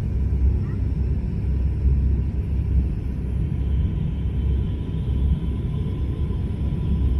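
Airliner cabin noise during descent: the steady low rumble of the engines and airflow heard from inside the cabin.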